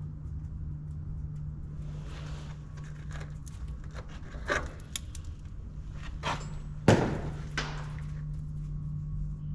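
A steady low engine hum with several scattered knocks and clanks of metal parts, the loudest a sharp knock about seven seconds in.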